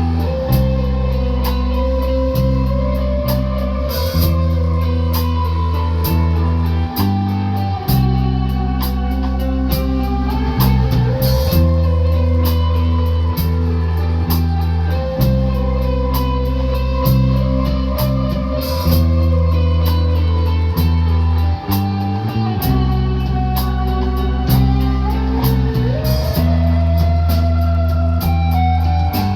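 Rock band playing live, with electric guitar, a sustained bass line and a drum kit keeping a steady beat with cymbal crashes.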